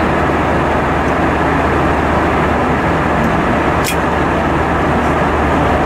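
Steady cabin noise inside an Airbus A320-232 airliner: an even roar of engines and rushing air over a constant low hum, with a single sharp click about four seconds in.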